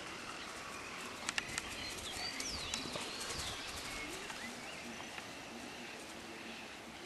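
Birds calling outdoors, with several quick rising and falling whistled calls in the middle. A few sharp clicks about a second in, and a brief low rumble around three seconds in.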